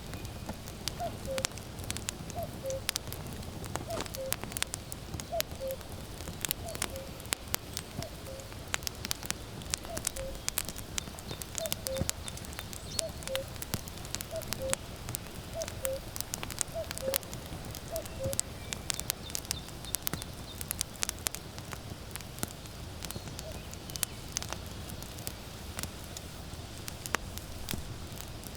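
Firewood crackling and popping in a campfire, with a common cuckoo repeating its falling two-note 'cuck-oo' call about once every second and a half; the cuckoo stops about two-thirds of the way through while the crackling goes on.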